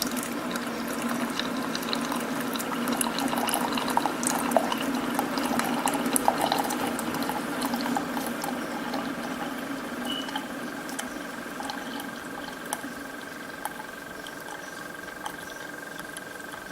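Keurig coffee maker brewing: its pump hums steadily while hot coffee streams into the cup, with scattered small clicks and splutters in the first half. The sound eases off later, and a thin steady whine comes in about halfway.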